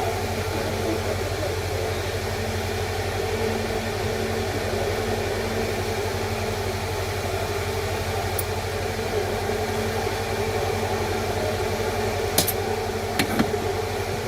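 A steady machine hum with fixed tones, with a few sharp clicks near the end.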